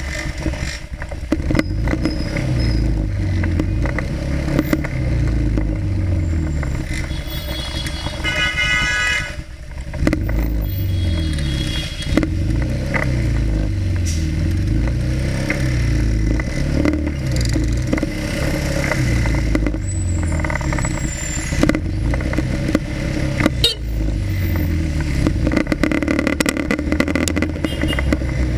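Motorcycle engine running through city traffic, its pitch rising and falling as the rider speeds up and slows, with other traffic around. A brief high tone sounds about eight seconds in.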